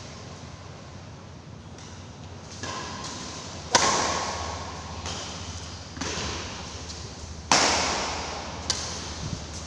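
Badminton rackets striking a shuttlecock during a rally: sharp cracks about one to two seconds apart, two of them hard smash-like hits, each trailing off in an echo.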